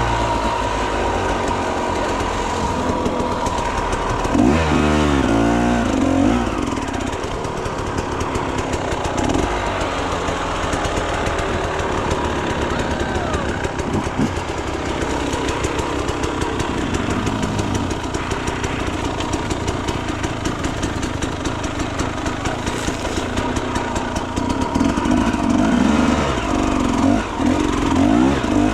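Enduro motorcycle engine running on a trail, its revs rising and falling as the throttle is worked, with harder bursts of revving about four seconds in and again near the end.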